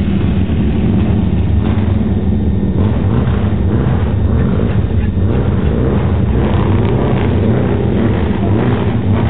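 Vintage motorcycle-and-sidecar outfit's engine running loudly as it races along the course, a steady, dense engine drone with no let-up.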